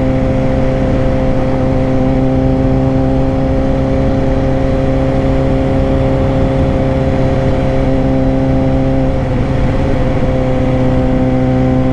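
Suzuki GSX-R 600 inline-four engine running at steady low revs. The note holds one pitch, dips slightly about nine seconds in, then comes back up near the end.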